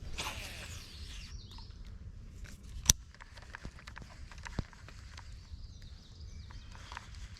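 Wind rumbling on the microphone, with scattered small clicks and knocks of handling or footsteps. A brief falling whirr comes at the start, and a single sharp click about three seconds in is the loudest sound.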